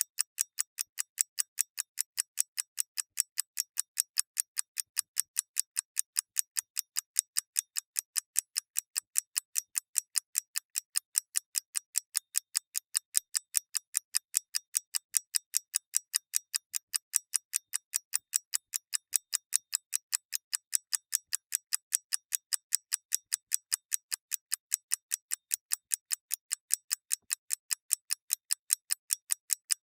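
A clockwork mechanism ticking steadily: sharp, crisp, evenly spaced ticks, about three a second, with no change in pace.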